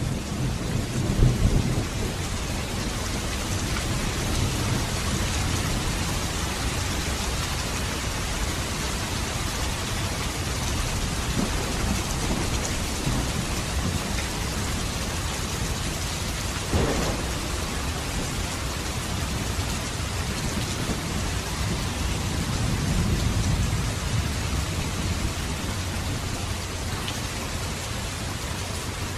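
Steady rain falling, with low rolls of distant thunder swelling near the start and again about three-quarters of the way through. A single sharp knock about halfway through.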